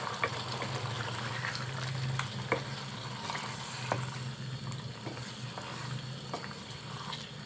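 Chicken curry in a yogurt gravy sizzling and bubbling in a pan as it is fried down and stirred with a wooden spatula, with scattered clicks of the spatula against the pan. A low steady hum runs underneath.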